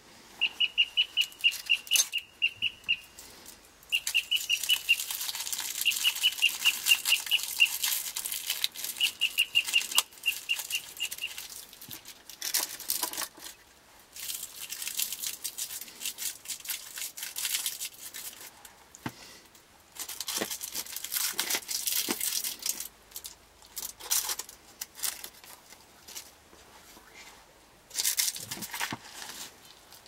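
A bird calling in quick runs of short high notes, about eight a second, through the first dozen seconds. Over it, a loud dry crackling, rustling noise comes and goes in bursts throughout.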